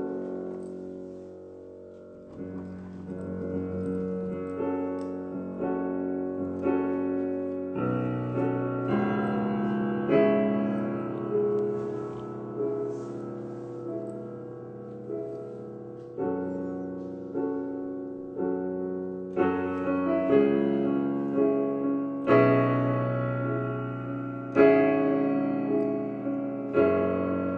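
Solo piano playing slow, sustained chords over low bass notes, a new chord struck every one to two seconds.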